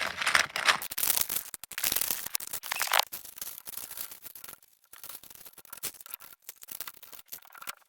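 Hands handling and fitting small parts: a dense rustling crackle for about three seconds, then softer scattered clicks and taps.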